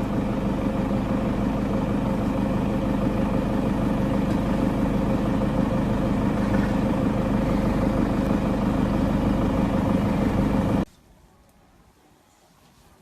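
An engine running steadily at idle, which cuts off abruptly near the end and leaves only faint background sound.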